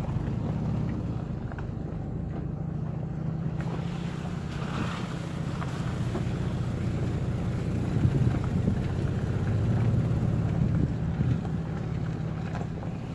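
Toyota FJ Cruiser's V6 engine idling with a steady low hum.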